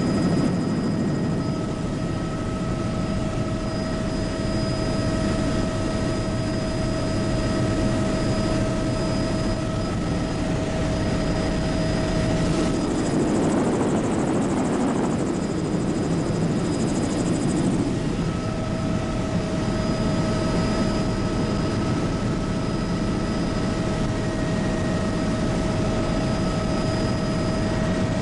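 Bell 206B JetRanger helicopter in flight, heard from the cabin: steady rotor and turboshaft engine noise with a high turbine whine. The whine fades for a few seconds around the middle while the broader noise swells, then returns.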